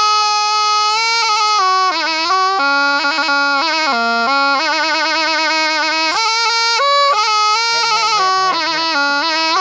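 Thai pi, a reed oboe, playing a continuous ornamented melody without pauses for breath, its nasal reedy tone sliding and warbling between notes.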